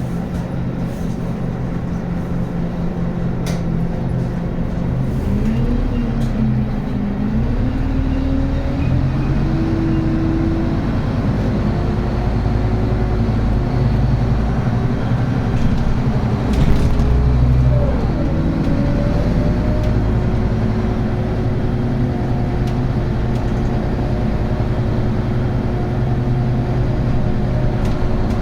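Scania N280UB city bus's diesel engine running under way with its ZF Ecomat automatic gearbox. The engine note rises over a few seconds about five seconds in, then holds steady. There is a short sharp knock about seventeen seconds in.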